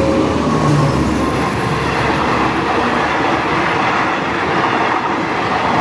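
Train passing close by: a steady, loud rumble and rattle of wheels running over the rails.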